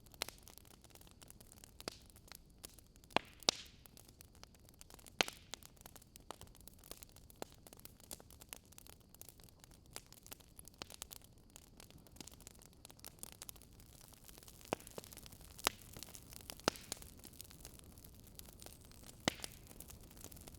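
Wood fire crackling: a steady soft hiss with irregular sharp pops, a few of them louder.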